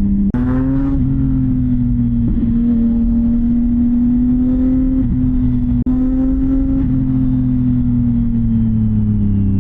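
CFMoto 675NK's inline-three engine through a titanium full-system exhaust, running at steady revs under way. The sound cuts out briefly twice, about a third of a second in and near the middle, and the pitch eases down near the end.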